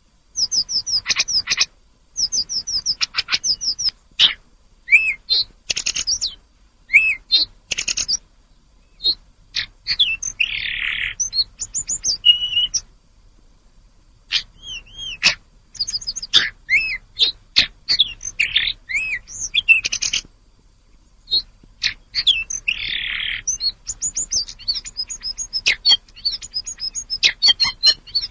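Tledekan gunung, a blue flycatcher, singing in rapid runs of high, varied whistled notes and trills with short pauses, including two harsh raspy notes partway through.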